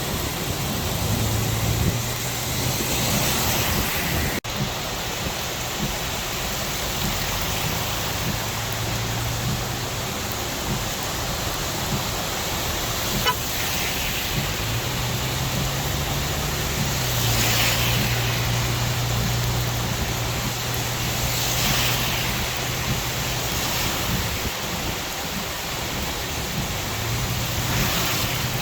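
Steady noise of heavy rain under a low vehicle engine hum that steps up and down in pitch a few times, with brief swells of hiss every several seconds.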